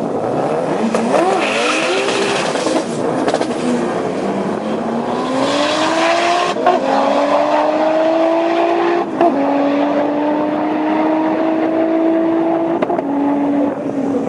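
Mk1 VW Golf with an R38 turbo engine launching hard off the line and pulling through the gears. The revs waver with tyre noise at the launch, then climb steadily, with three sharp gear changes that each drop the pitch, about six and a half, nine and thirteen seconds in.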